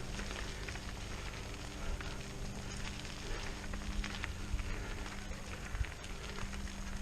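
Mountain bike rolling over a rough trail: a steady crackle of tyres on dirt and gravel with scattered small clicks and rattles, over a steady low hum.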